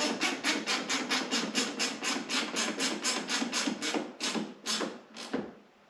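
Hand ratchet wrench working a bolt, a quick run of rasping clicking strokes about five a second that slows to a few spaced strokes near the end as the fastener is snugged down.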